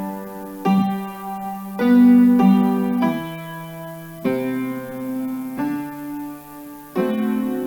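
Piano playing slow, held chords, a new chord struck about every second or so.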